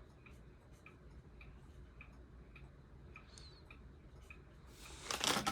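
SMC A52 ceiling fan running on its high speed, with a low hum and a light tick repeating a little under twice a second. A louder rustling noise comes in near the end.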